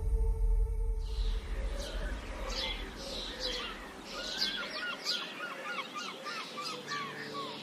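Several birds singing and chirping in quick, short repeated notes, starting about a second in. A low rumble underneath fades away over the first few seconds.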